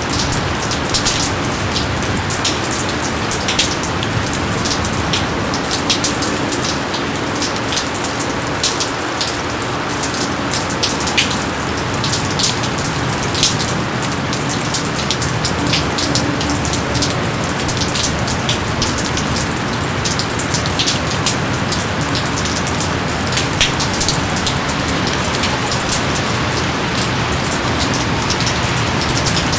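Steady heavy rain: a constant hiss of rainfall with many close, sharp drops striking throughout.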